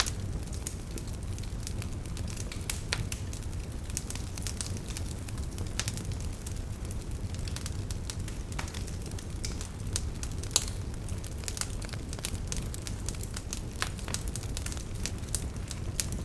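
Wood fire crackling in a fireplace: scattered sharp pops and snaps over a steady low rumble, with one louder pop about two-thirds of the way through.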